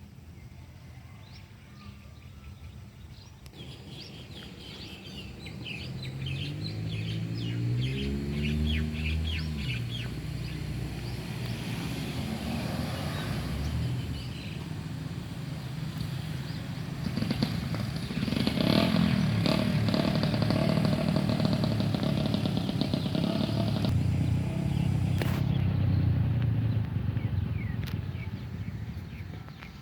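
Motor vehicles passing: an engine whose pitch falls and rises goes by in the first third, then a louder, heavier engine rumble builds and holds for about ten seconds before fading near the end. Birds chirp throughout.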